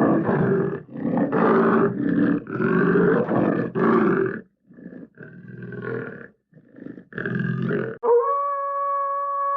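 Hanna-Barbera cartoon sound effects: a string of rough animal roars and growls in short bursts, fainter and more broken after about four seconds. About eight seconds in, a single long, steady howl begins, sinking slightly in pitch.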